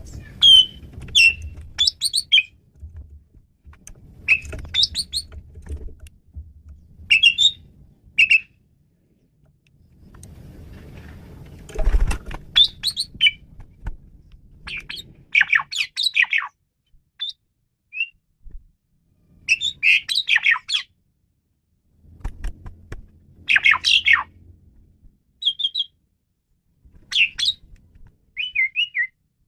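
Male Asian pied starling (jalak suren) singing a varied song: short whistled and chattering phrases in bursts every second or two, with a faint low rumble underneath at times.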